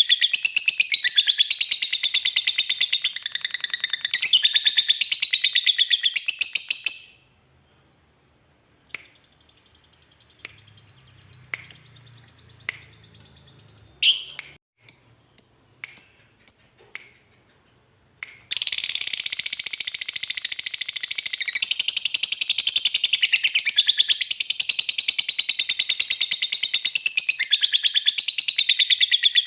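Lovebird giving its long, very rapid chattering song (ngekek panjang). The chatter breaks off about seven seconds in, leaving only a few scattered short chirps for about eleven seconds, then starts again and runs on unbroken.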